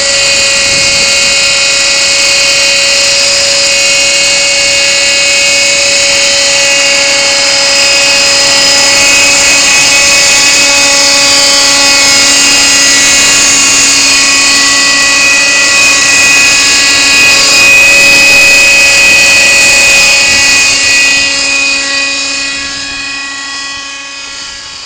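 Kyosho Nexas 30 radio-controlled helicopter in flight, its small two-stroke nitro glow engine running at a steady high-pitched whine together with the rotor. It grows fainter over the last few seconds.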